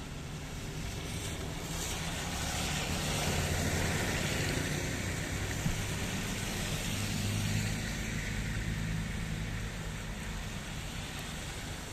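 Steady rain falling, with a motor vehicle passing by: its low engine hum and hiss swell over a few seconds and then fade away.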